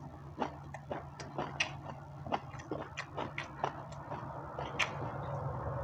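A person chewing a mouthful of fried rice and chicken, with irregular wet mouth clicks about three a second, over a steady low hum.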